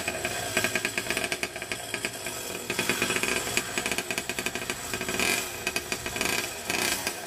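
Mini bike's small gasoline engine running just after being started: a fast, rattling putter whose level rises and falls.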